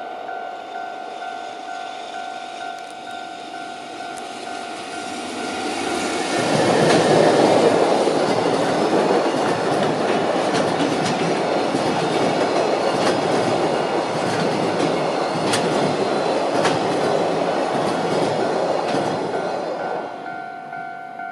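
A freight train runs past at speed, its wheels clattering over rail joints with many sharp clicks; it grows loud about six seconds in and fades out around twenty seconds. Before and after the train, a level-crossing warning bell rings in a steady pulsing tone.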